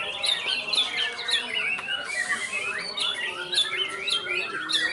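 White-rumped shama (murai batu) singing a dense, fast stream of varied whistles and chirps, with other birds' song overlapping. There is a short hiss about two seconds in.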